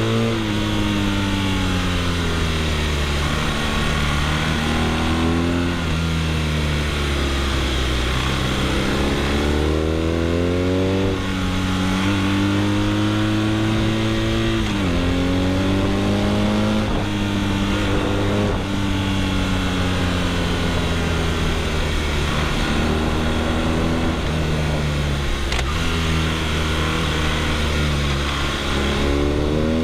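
BMW R nineT boxer-twin engine breathing through an Akrapovic exhaust, pulling through the gears: its pitch rises repeatedly under acceleration, then falls as the throttle comes off, with a sharp drop about fifteen seconds in.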